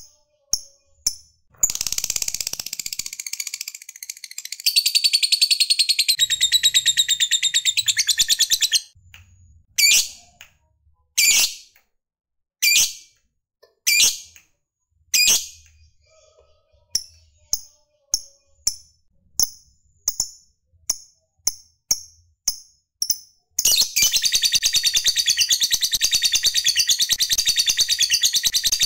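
Lovebird chattering: bursts of rapid, high-pitched trilling (the long 'ngekek' chatter), broken by single shrill calls and a run of short chirps about two a second. A long unbroken trill starts near the end.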